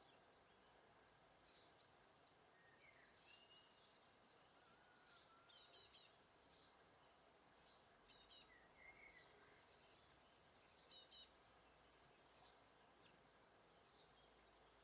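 Small garden songbirds calling: three short bursts of rapid, high repeated notes, with faint scattered chirps between them.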